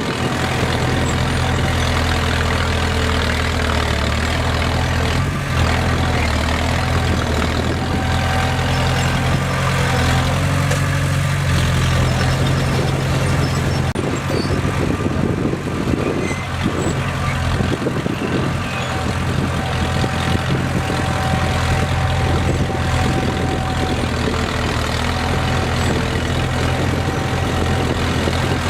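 Bulldozer's heavy diesel engine running at a steady, deep pitch.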